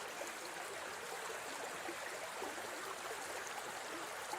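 Steady rush of flowing stream water, an even background water sound.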